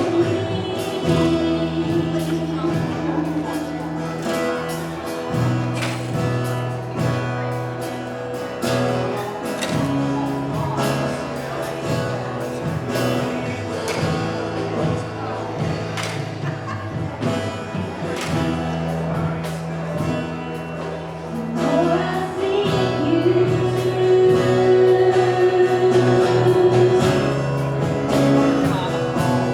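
Gospel music: a choir singing over a band with sustained bass notes and a steady beat.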